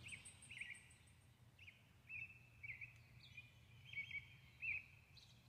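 Faint songbird chirps: short, hooked calls repeated every half second or so, with a thin high trill in the first second.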